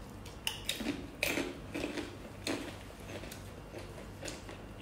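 Close-miked chewing: wet clicks and crunches from a mouthful of food, coming irregularly several times.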